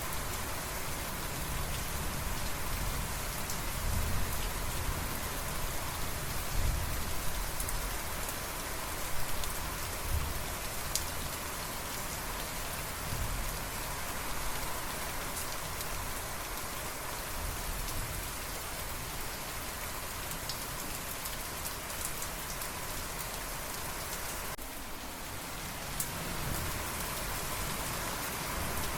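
Steady rain falling on surfaces, an even hiss with some uneven low rumbling underneath.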